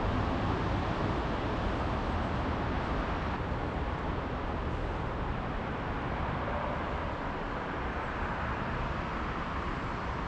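Steady vehicle rumble with a faint hum, easing off slightly toward the end.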